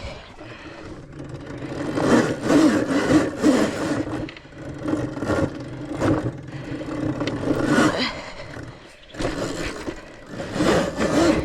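Electric dirt bike being ridden along a trail: motor and drivetrain whirring, swelling and easing every second or two with the throttle, mixed with tyre, brush and wind noise.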